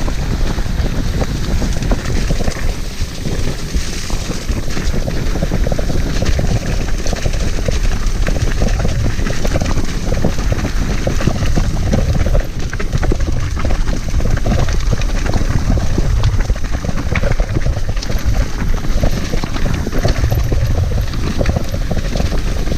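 Mountain bike riding over a muddy, rough trail: a continuous rumble of tyres and rattling knocks from the bike over bumps, with wind buffeting the microphone.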